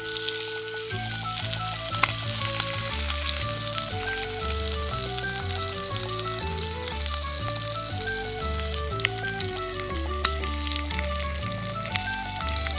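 Sausages sizzling over a wood fire: a steady fatty hiss with scattered pops and spits. Background music with a stepping melody and bass notes plays under it.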